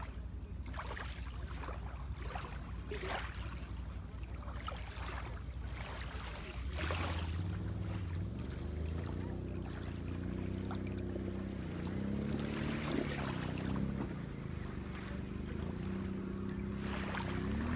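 Sea waves washing and wind gusting on the microphone. About seven seconds in, a low motor hum joins, its pitch slowly wavering up and down.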